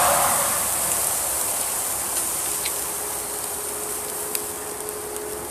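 Beef burger patties sizzling in a wire grill basket over a campfire, a steady hiss with a few sharp pops and crackles.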